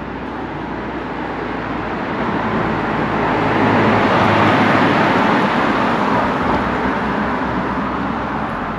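A car driving past on the road, its tyre and engine noise growing louder to a peak about halfway through and then fading away.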